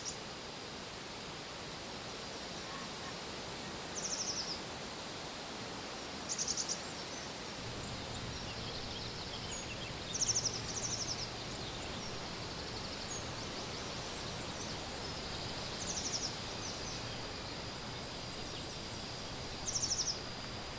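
Outdoor summer ambience: a steady hiss, broken every few seconds by a short, high, very fast trill lasting about half a second. A faint low hum comes in about a third of the way through.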